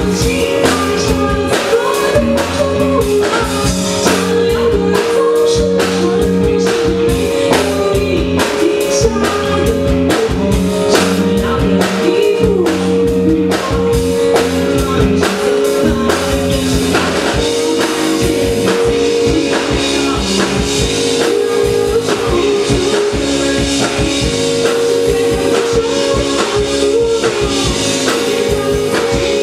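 Live piano-rock band playing a song: drum kit, bass and keyboard, with singing.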